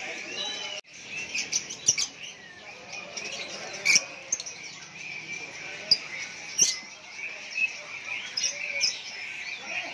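Many caged songbirds chirping and whistling at once in a dense chorus, with a few sharp, louder calls standing out.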